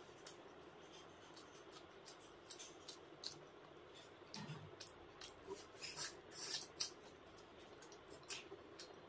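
Close-miked eating sounds: irregular wet mouth clicks and squishy chewing of masala egg curry eaten by hand, with a louder run of squelches about six to seven seconds in.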